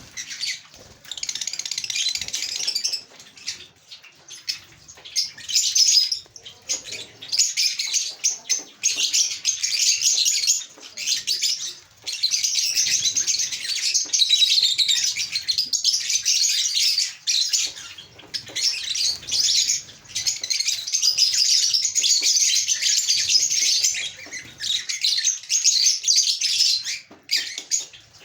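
Caged lovebirds and Java finches chirping together in a dense, continuous high-pitched chatter, with short lulls every few seconds.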